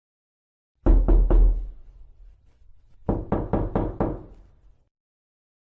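Knocking on a door: three quick knocks, then after a short pause a second run of four or five knocks.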